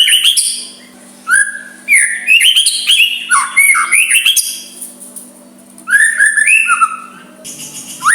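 White-rumped shama singing: three or four bursts of quick, varied whistled notes that slide up and down, with short pauses between them.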